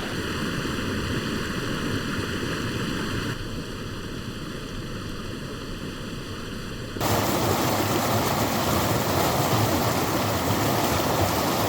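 Rain-swollen stream rushing in spate: a steady, even roar of fast-flowing water, getting louder about seven seconds in.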